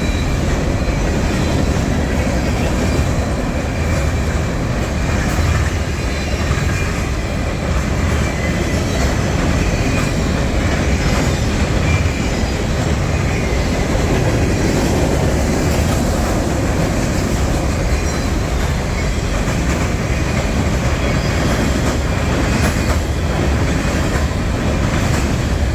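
Freight train cars rolling past on the rails: a loud, steady rumble of steel wheels on track that holds for the whole stretch.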